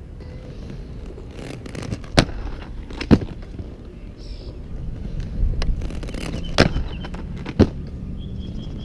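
Inline skate wheels rolling on concrete with a low rumble, broken by four sharp knocks as the skates land and strike the park's ledges and ground.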